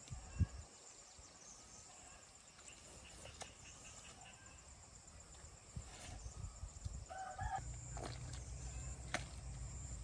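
A short bird call, likely from farm fowl, about seven and a half seconds in, over a steady high hum and a low rumble that grows louder near the end, with a few scattered clicks.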